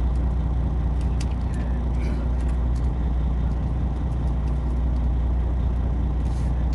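A fishing boat's engine running steadily on board, a low even drone, with a few light clicks and knocks over it.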